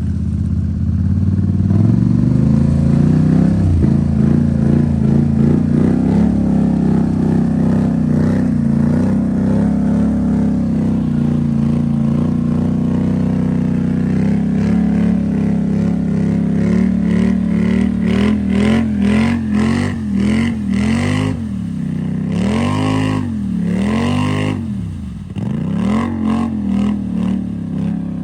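Off-road vehicle engine running loud and steady, then revved up and down again and again through the second half.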